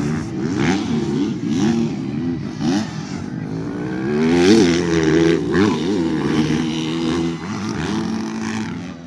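Motocross bikes racing, their engines revving up and down through gear changes, several engines overlapping. They are loudest about four and a half seconds in and fade slightly near the end.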